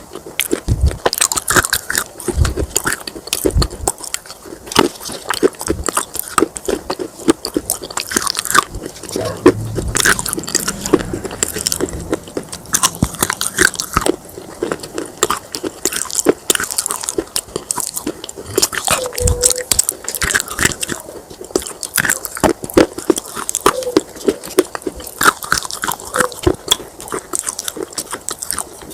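Pieces of baked clay pot being bitten and chewed: a dense, continuous run of sharp crunches and crackles.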